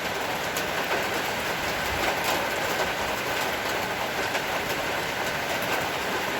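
Heavy rain falling in a steady hiss, with now and then a louder drop clicking through.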